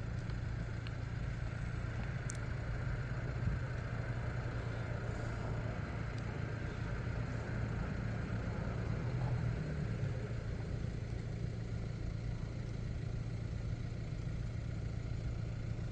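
A vehicle engine idling, a steady low hum that does not change.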